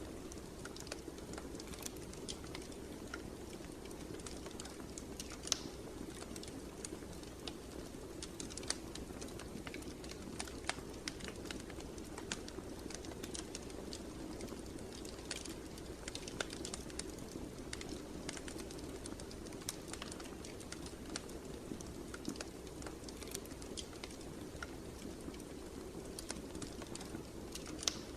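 Fireplace fire crackling: irregular sharp pops and snaps scattered over a steady low rumble of the flames.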